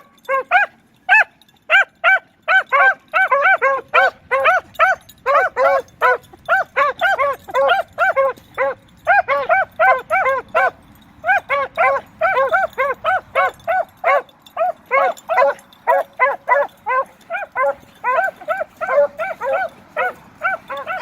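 Beagles yelping rapidly, several short rising-and-falling yelps a second, at times two dogs overlapping, with a brief pause about halfway through.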